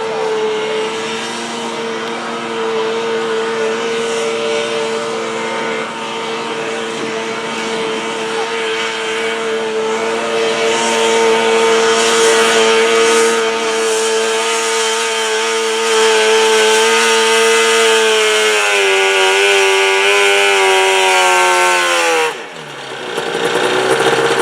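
Modified pulling garden tractor's engine running flat out at high, steady revs while dragging the weight sled. About 18 seconds in, the revs sag as it lugs down under the load. Near the end it drops off sharply, then picks up again briefly.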